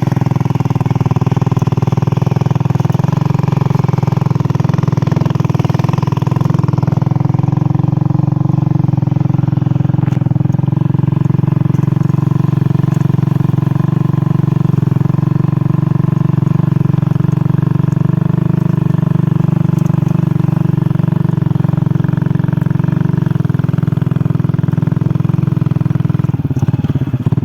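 An engine running steadily at a constant speed, with a low rapid pulsing, starting to falter right at the end.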